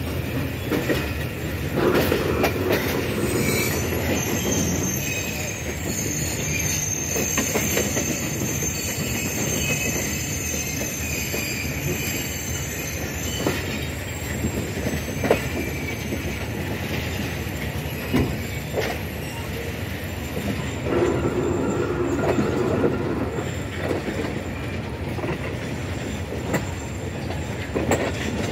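Passenger train running on the rails, a steady rumble with irregular knocks and rattles from the carriages. A high wheel squeal comes through in the first half.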